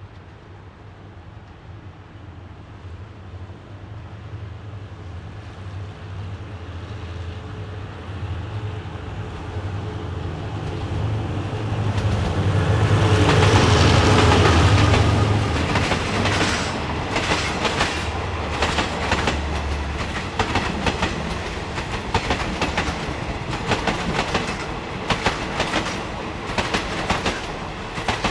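A diesel-electric locomotive approaches and passes. Its engine hum grows to a peak about halfway through, then fades. The coaches behind it follow with a steady clickety-clack of wheels over the rail joints.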